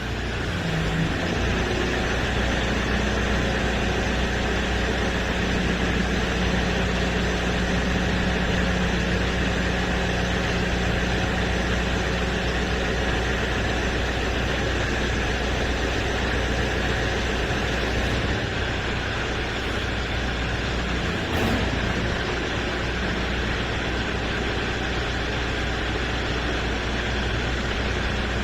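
Engine of a farm machine working a direct seeder, running steadily with a low, even hum.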